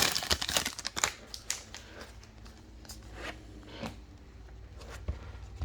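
Foil trading card pack wrapper crinkling and tearing for about the first second, then a few light, scattered clicks and taps as the cards are handled.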